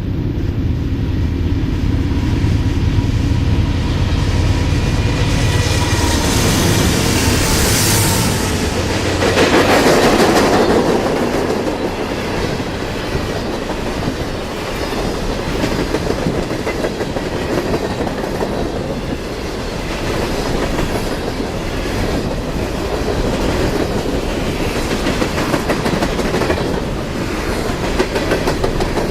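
A diesel-hauled train passing close by. The locomotives' engines drone at first and the sound is loudest about nine to ten seconds in, then the cars roll past with a steady rumble and a regular clickety-clack of wheels over rail joints.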